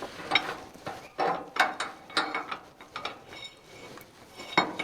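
Irregular metallic clicks and clinks of hand tools on steel tractor lift parts, about half a dozen sharp strokes with a slight metallic ring, the loudest near the end.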